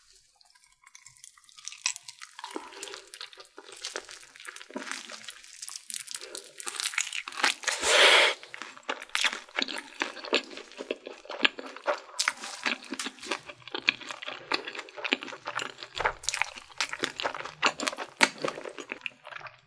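Close-up crunching and chewing of a spicy-sauced Korean fried chicken drumstick, its crispy coating crackling in many sharp crunches. There is one louder crunch about eight seconds in.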